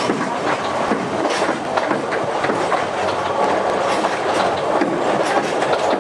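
Oigawa Railway passenger car running along the track, heard from inside the carriage: a steady rumble of wheels on rail with irregular clicks and clatter over the joints.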